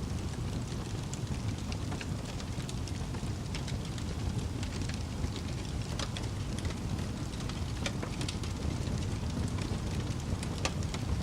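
Fire crackling: a steady low rumble of flame with scattered sharp pops and snaps.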